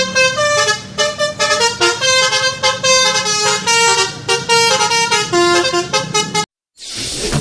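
Telolet musical horn playing a quick tune of short notes over a steady low hum. It cuts off suddenly near the end, and after a brief gap a rush of noise begins.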